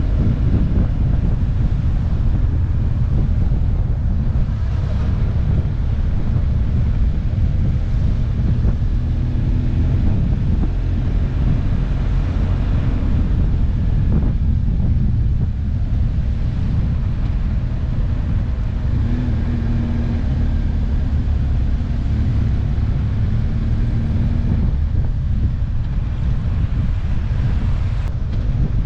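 Motorcycle riding steadily at road speed: heavy wind buffeting on the microphone over the even drone of the engine, with no gear changes or big revs.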